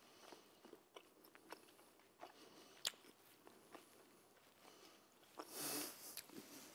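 Faint mouth sounds of a man chewing a forkful of chicken: scattered soft clicks, one sharper click about three seconds in, and a brief breathy sound near the end.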